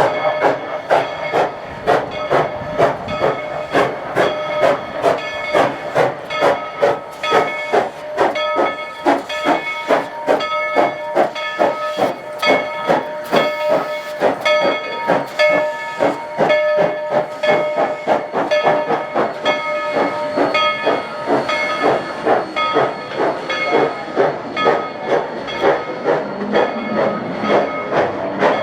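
Narrow-gauge steam locomotive No. 190 passing at low speed, its exhaust chuffing in an even rhythm of about two to three beats a second over a steady hiss of steam.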